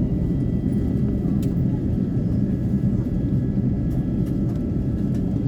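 Steady low rumble of an Airbus A350-900's passenger cabin, with a few faint steady whines and light ticks over it.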